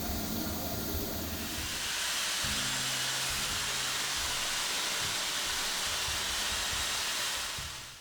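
Steady hissing noise, growing louder about two seconds in and fading out near the end.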